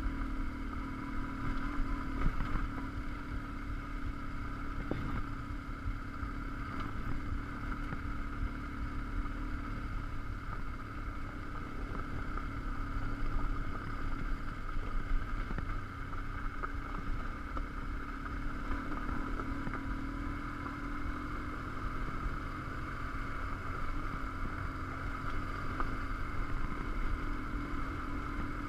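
BMW R1150GS Adventure's boxer twin engine running steadily at a moderate pace as the motorcycle rides over a gravel track, with a few short knocks from the loose stones under the tyres.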